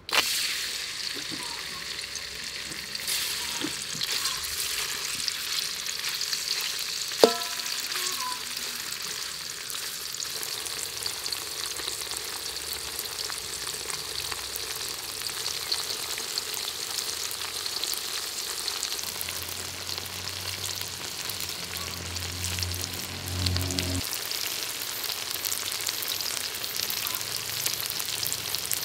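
Cubes of tofu frying in hot soybean oil in an aluminium wok, a steady sizzle, with a single sharp knock about seven seconds in.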